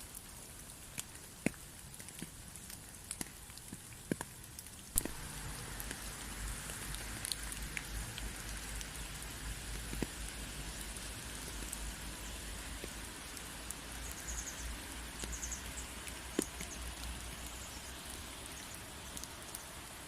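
Rain falling, with individual drops clicking and pattering on a surface. About five seconds in, it abruptly becomes a denser, steadier hiss of heavier rain with a low rumble underneath.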